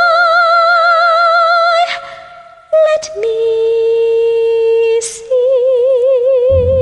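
Classical soprano singing long held notes with a wide vibrato, unaccompanied, with a short break for breath about two seconds in. A low accompaniment comes in just before the end.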